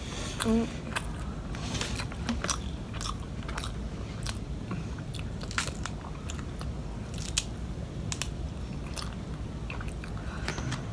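Close-up mouth sounds of chewing and crunching crispy fried catfish, with many short irregular crackling clicks.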